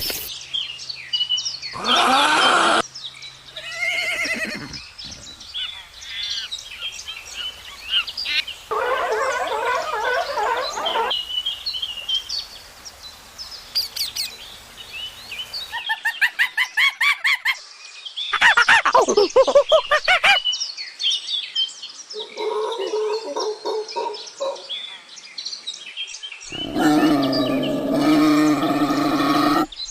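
A string of short animal calls cut one after another, many of them bird calls and chirps, each lasting a second or a few seconds and differing in pitch.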